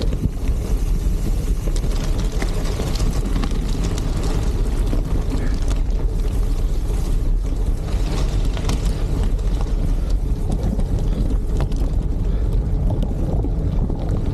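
A steady low rumble of wind buffeting the microphone on a moving bicycle, with scattered faint crackles from tyres rolling on gravel.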